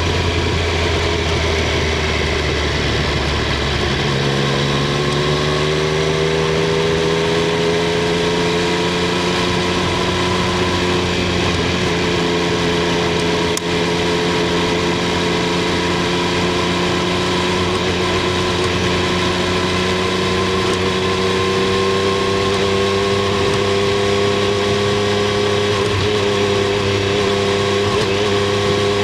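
Triumph Street Triple 765 R's 765 cc inline three-cylinder engine and exhaust running on the move. The note is steady at first, changes about four seconds in, then climbs slowly and evenly as the engine gathers revs. There is a short click about halfway through.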